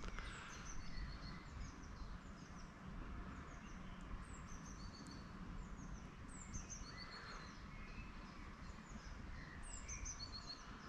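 Birds singing outdoors: many short, high, falling chirps repeated throughout, over a faint steady low rumble.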